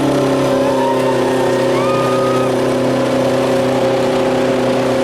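Modified pulling lawn tractor's engine running steadily at one speed, a smooth, even drone.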